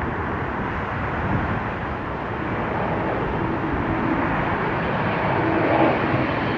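Jet airliner engine noise: a steady rumble and hiss with a faint hum, slowly growing louder.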